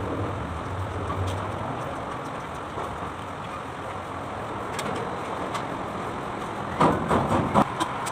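Kubota D905 three-cylinder diesel engine running steadily, with a few sharp knocks about seven seconds in.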